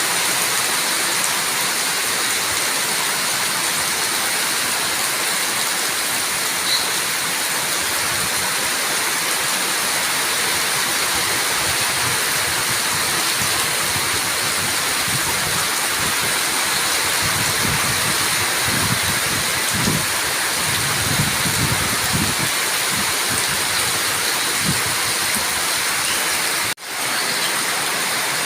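Steady heavy rain, an even dense hiss, with some low rumbling a little past the middle. The sound drops out for an instant near the end, then carries on.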